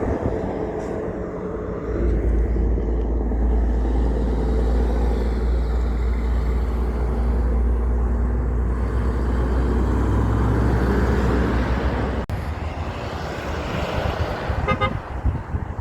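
Heavy diesel truck engine running with a deep, steady rumble that sets in about two seconds in and cuts off abruptly near twelve seconds, followed by rougher vehicle noise.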